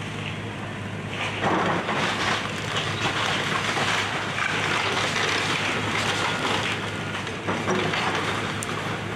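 Excavator engine running steadily while the machine crushes and tears apart a house, with loud crunching and clattering of breaking debris that begins about a second and a half in.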